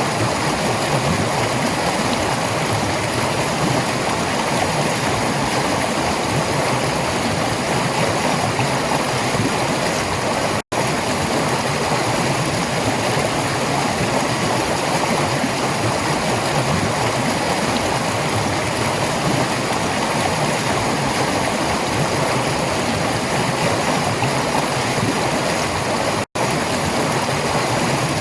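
Running water of a stream, a steady rushing, gurgling flow that cuts out for an instant twice.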